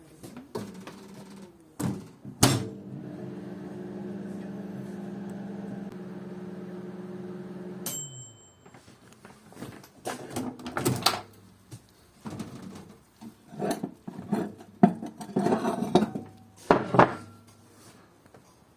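Microwave oven: a click, then the oven's steady hum for about five seconds, which stops with a single short beep. After that come a run of clatters and knocks, the sound of the door and dishes being handled.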